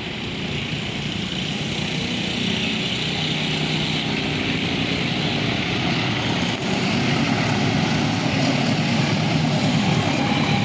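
A train approaching along the track, its low engine drone and hiss slowly building in level, over the steady rumble of traffic.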